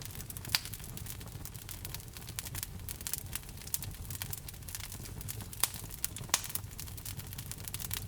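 Fireplace fire crackling with dense irregular snaps, and a few louder pops about half a second in and twice between five and a half and six and a half seconds, over a low steady rumble.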